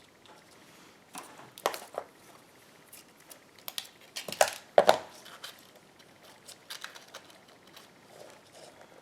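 Rustling and crinkling of cardstock and ribbon being handled while a bow is tied, in two clusters about a second in and again around four to five seconds in.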